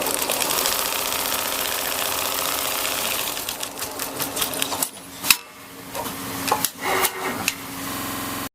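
Richpeace automatic sewing machine stitching at a fast, steady rate, then a sharp click about five seconds in, after which it runs in shorter stretches until the sound cuts off abruptly at the end.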